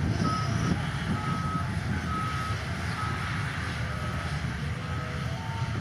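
Reversing alarm on a diesel heavy machine beeping about once a second over the steady running of its engine.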